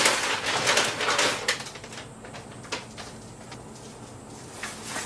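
Birds calling in the morning, with a loud burst of rustling noise in the first second and a half.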